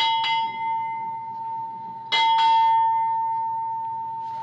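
Ship's bell struck in two pairs, each pair of quick strokes about two seconds apart, the tone ringing on and slowly fading: the naval bell honours rung as an official party arrives.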